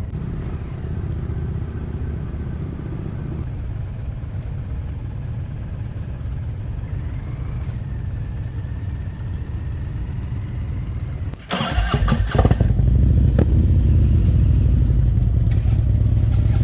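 V-twin motorcycle engine idling steadily. About eleven and a half seconds in it dips for a moment, then gets suddenly much louder, with a burst of rushing noise, and stays loud as the bike is revved up.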